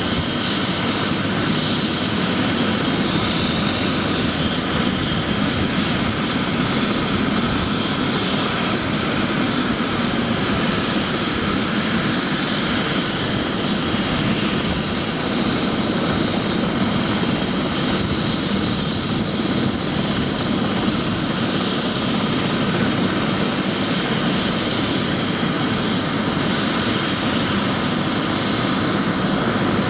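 Bell 407 helicopter running steadily, its single turboshaft engine and four-blade main rotor heard together.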